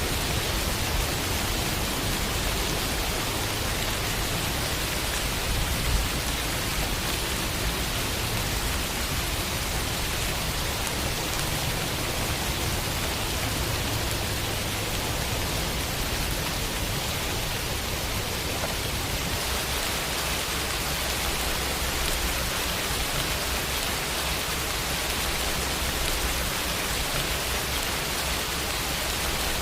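Steady rain falling on a window, an even hiss with a low rumble beneath it.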